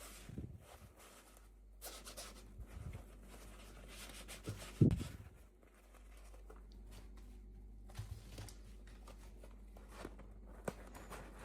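Hands unboxing toys: packaging rustling and tearing in scattered bursts, with a few light knocks and one louder thump about five seconds in.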